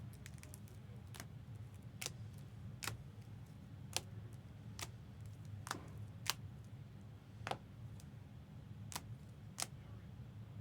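Light, sharp clicks or taps, about one a second at uneven spacing, over a steady low hum.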